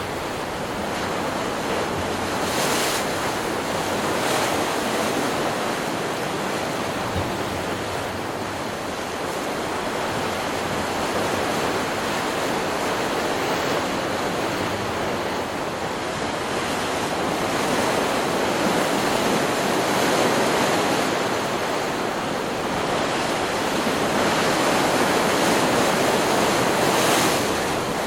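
Stock recording of ocean surf: waves breaking and washing in as a continuous wash that swells and eases several times.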